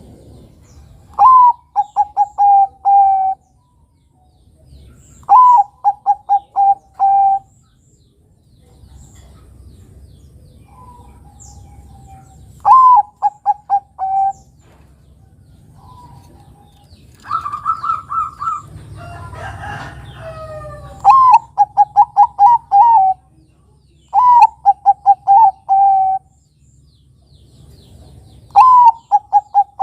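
Zebra dove (perkutut, Bangkok type) cooing its song over and over. Each phrase is a rising opening note, then a quick run of five or six short coos ending on a longer held note, and it repeats six times with gaps of a few seconds. Fainter calls sound in between, and a different, more jumbled bird call comes in about two-thirds of the way through.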